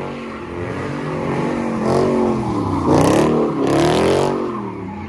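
A car engine revving hard, its pitch swooping down and back up several times, with short bursts of hissing noise about two, three and four seconds in.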